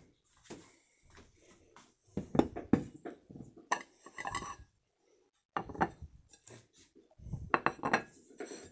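Kitchen clatter: dishes and cutlery clinking and knocking in irregular bursts as food is set out.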